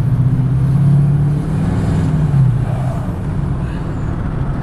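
Deleted 6.6 L Duramax LML diesel engine running cold as the truck pulls away, a loud, steady low exhaust drone whose pitch eases down slightly about halfway through. The engine has not yet warmed up.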